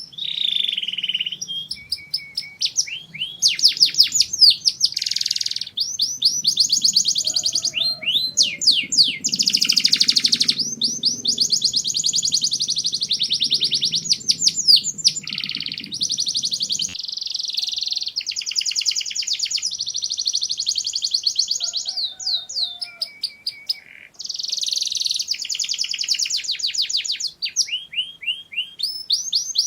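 Domestic canary singing a continuous song of rapid trills and rolls. The phrases change every second or two, some fast and buzzy, some slower repeated notes.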